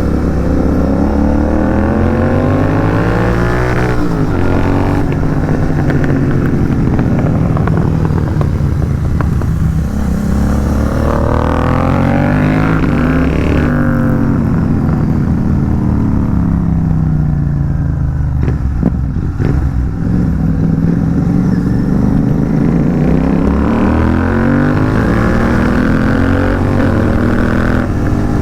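Royal Enfield Continental GT 650 parallel-twin engine with an aftermarket AEW megaphone exhaust, riding under load. The revs climb, drop sharply at the gear changes about 4 and 14 seconds in, sink while the rider eases off, then climb again near the end.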